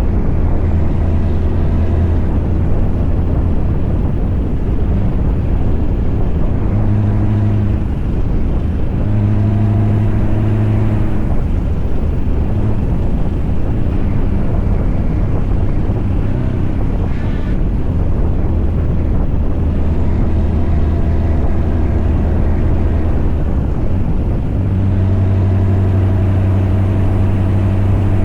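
Scania V8 diesel truck engine running under load while driving, a steady low hum that swells a few times and is strongest near the end.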